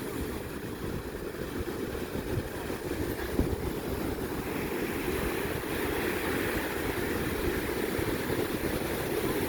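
Steady rushing noise of wind buffeting the microphone over the wash of ocean surf.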